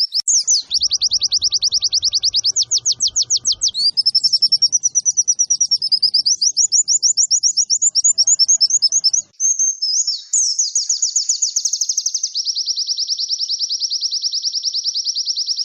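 White-eye (pleci) song: long, rapid trills of high chirps, about ten notes a second, with the phrase changing every second or two and no pause.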